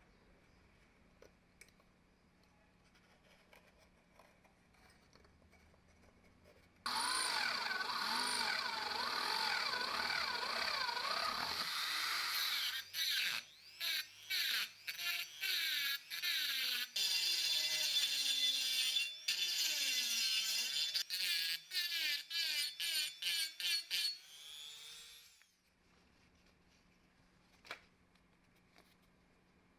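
Electric power-tool motor running for about five seconds, then switched on and off in quick pulses, its pitch rising and falling with each pulse, before it winds down near the end.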